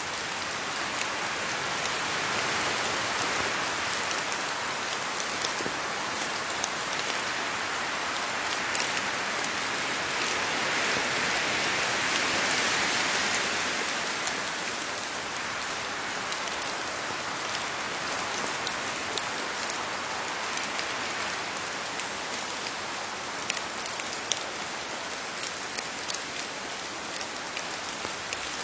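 Steady rain falling on leaves, a continuous patter with many separate drop ticks, swelling a little in the middle.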